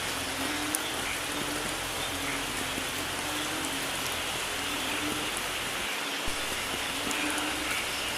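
Steady rain falling, an even hiss of drops with a few sharper drop ticks here and there.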